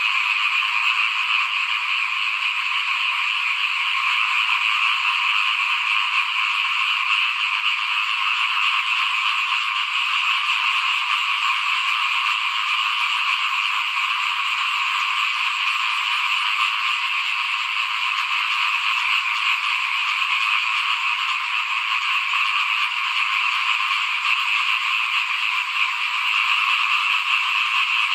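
Dense chorus of many small frogs (khiat) calling at once, a steady, unbroken din with no pauses.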